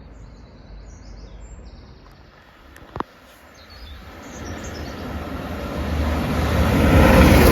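Transport for Wales Class 197 diesel multiple unit approaching and passing through the station, its rumble swelling from about four seconds in to loud near the end. There is a single sharp click about three seconds in, and faint birdsong in the first half.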